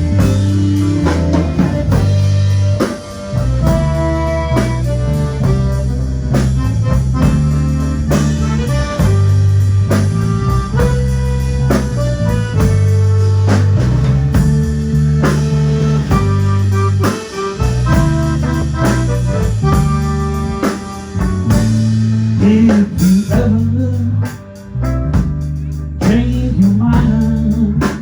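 A live band playing, with drum kit, guitar and a singing voice over a steady bass line.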